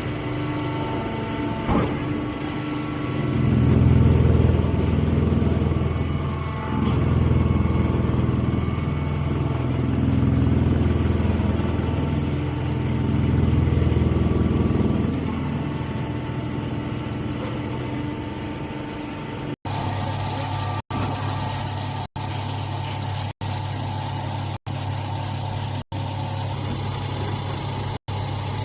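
Hydraulic hay baler running: a steady motor-and-pump hum that swells several times, about every three seconds, as the press works. Later the hum goes on steady, broken by brief silent gaps about every second and a quarter.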